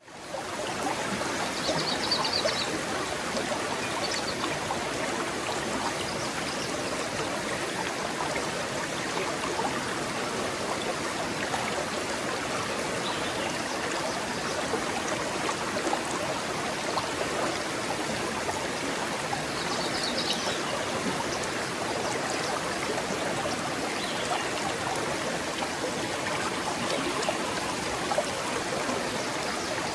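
Forest stream flowing and trickling steadily over stones, fading in at the very start. Twice there are brief high chirps above the water.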